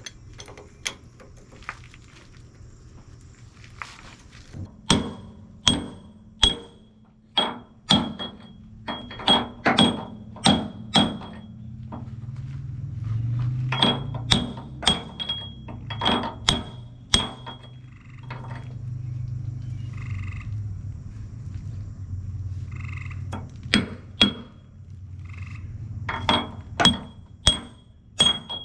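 Heavy hammer blows on a steel hydraulic cylinder part, each with a sharp metallic ring, coming in runs of roughly two strikes a second with pauses between the runs. A low steady hum sounds under the middle stretch.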